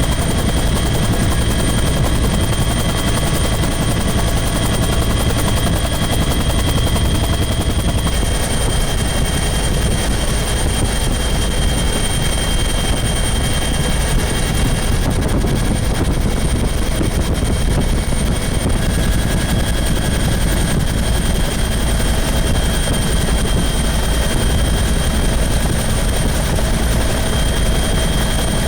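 Bell 212 helicopter running steadily in flight, its twin turboshaft engines and rotors making a loud, even noise with a constant high whine.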